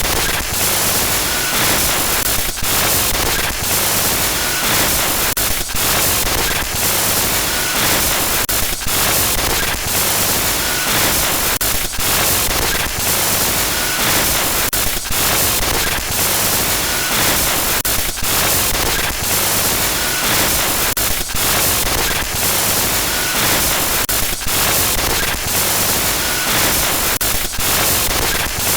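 Loud, harsh glitchy static noise, a continuous hiss across the whole range, broken by frequent brief dropouts and crackles, with a faint short beep recurring every few seconds.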